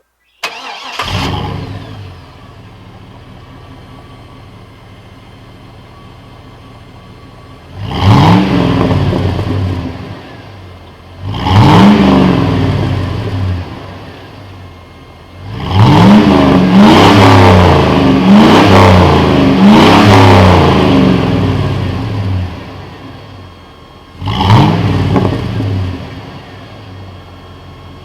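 5.3-litre LM7 V8 of a 1999 Chevrolet Silverado, breathing through a Cherry Bomb straight-through muffler. It starts and settles into a steady idle, then is revved in place: one rev, a second, a quick run of about four revs in a row, and a last rev, dropping back to idle after each.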